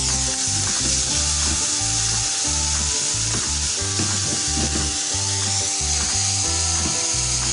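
Tomato-and-spice masala frying in hot oil in a non-stick kadai, with a steady sizzle while a spatula stirs and scrapes it around the pan.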